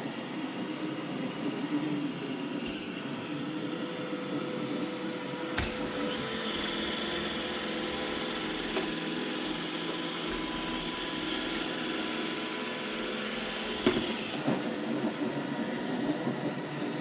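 iRobot Roomba E6 robot vacuum running, a steady motor and brush hum. About six seconds in it turns brighter, with a higher whine added, and drops back after a faint click about fourteen seconds in.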